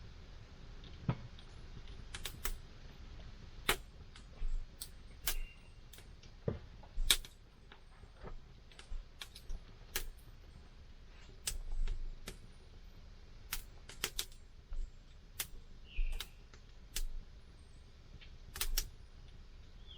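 Campfire wood burning, crackling with irregular sharp pops and snaps, one or two a second, over a low steady hiss.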